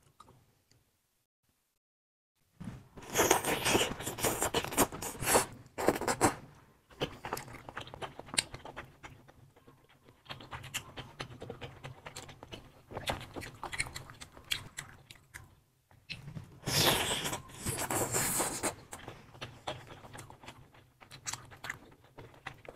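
Close-miked eating sounds of cheese-covered sausages in spicy sauce being bitten and chewed, with wet mouth noises and small clicks of metal tongs on the plate. It starts after about two and a half seconds of silence and comes in irregular bursts, loudest a few seconds in and again near the end.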